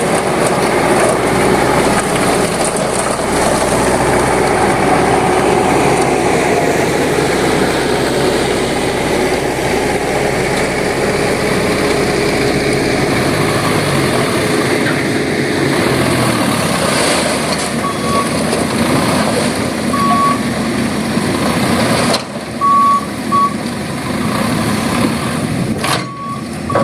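Isuzu Elf NMR71 dump truck's diesel engine running hard with a steady drone, then dropping to a quieter run about two-thirds of the way through. After that come several short, high electronic beeps at uneven gaps.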